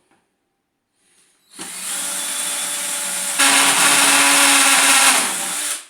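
Hammer drill boring an entrance hole through a plastic 20 litre bucket, its hammer action engaged the whole time, which gives a horrible noise. It starts about a second and a half in, grows louder partway through, and stops just before the end.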